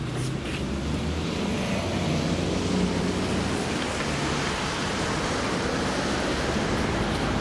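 Passenger train running over the level crossing: a steady rumble of wheels on rails with a low diesel engine note, building over the first couple of seconds and then holding.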